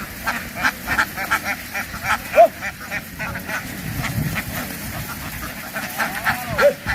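A flock of domestic ducks quacking: many short calls overlapping in a dense chatter, with one louder call about two and a half seconds in.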